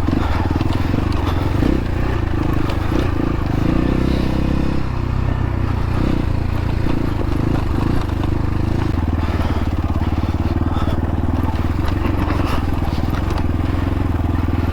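X-Pro Templar X dirt bike engine running steadily at low revs in a low gear, with tyres crunching over rocky ground.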